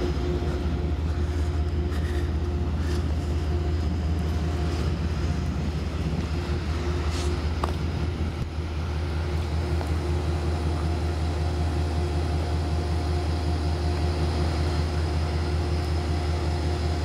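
Diesel locomotive of a standing passenger train idling, a GE Genesis P32AC-DM: a steady low rumble with a steady tone over it.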